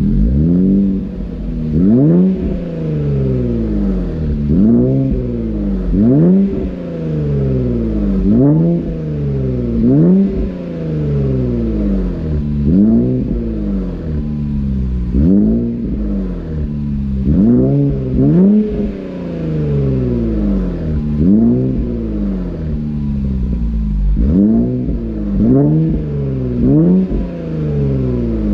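Infiniti Q50 Red Sport 400's 3.0-litre twin-turbo V6 being blipped through a Motordyne exhaust with AMS lower downpipes. Each rev rises quickly and falls back to idle, repeated about every two seconds.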